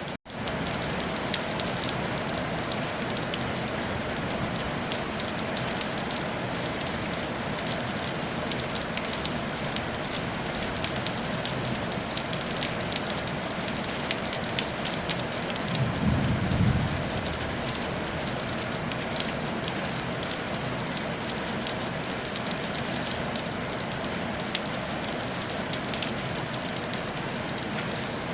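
Steady rain falling on a tile roof, an even patter with fine drop crackle. About halfway through a brief low rumble swells and fades.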